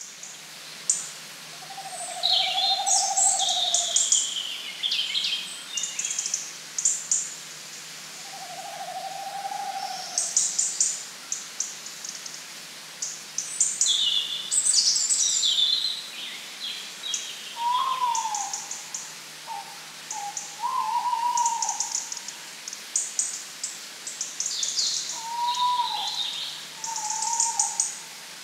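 Birdsong from more than one bird: quick, high chirping phrases again and again. A lower, hoot-like note about a second long comes twice early on, and short whistled notes that slide downward come later.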